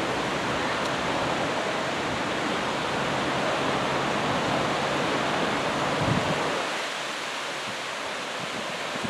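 Heavy ocean surf from an approaching typhoon, breaking and washing up the beach: a steady rushing noise that eases slightly about seven seconds in.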